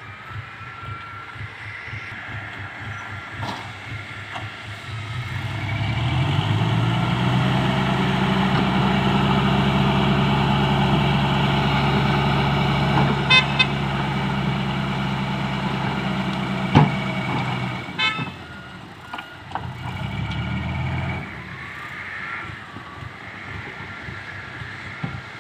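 A loaded dump truck's diesel engine comes up loud about five seconds in and runs with a steady, even drone for some twelve seconds, then drops away. Two short sharp sounds come about halfway through, and the engine swells again briefly near the end.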